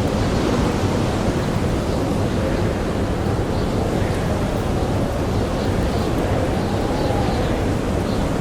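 Blizzard wind blowing steadily, with a howl that wavers up and down in pitch.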